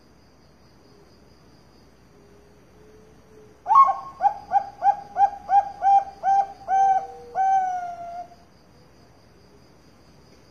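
Zebra dove (Bangkok perkutut) cooing: starting about four seconds in, a quick run of about eleven short, even notes, about three a second, ending in one longer, slightly falling note. A faint, pulsing high insect trill runs underneath.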